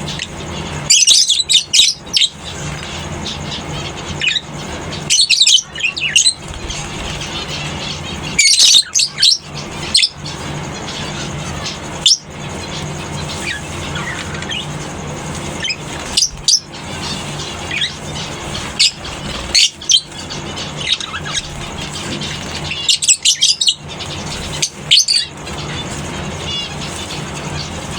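Lovebirds in a colony giving shrill chirps in clusters every few seconds, over a steady low hum.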